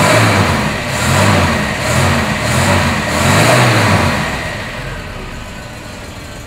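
Freshly started four-cylinder engine of a 1969 Volvo 142 S, revved in about four short blips roughly a second apart. About four and a half seconds in it settles back to a smooth, steady idle.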